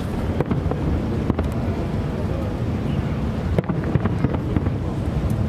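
Fireworks bursting: a few sharp bangs, about four in five seconds, over a steady low rumble.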